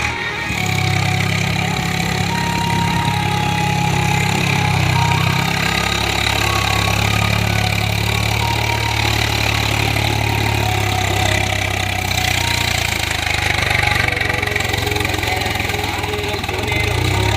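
Swaraj tractor's diesel engine running steadily, its note changing about five seconds in and again near the end.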